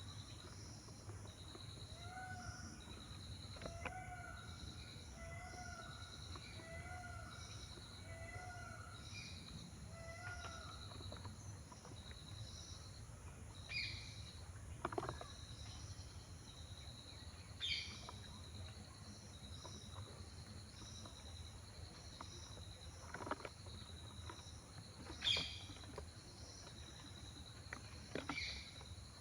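Faint birds calling over a steady, pulsing insect chorus. About six evenly spaced lower calls come in the first ten seconds, then four short, sharp, falling chirps in the second half.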